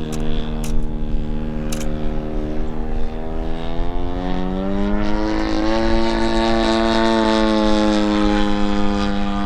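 Desert Aircraft DA-100 twin-cylinder two-stroke gas engine of a large-scale RC Super Decathlon running in flight, spinning a 27x10 propeller. The engine note rises about halfway through and then holds steady at the higher pitch.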